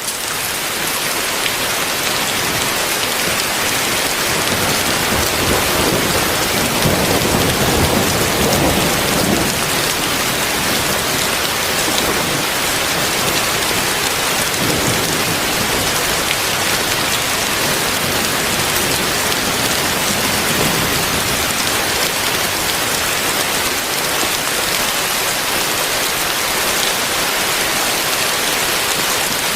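Heavy rain pouring steadily, a dense, even hiss of drops on surfaces. It swells louder and deeper for a few seconds about seven seconds in.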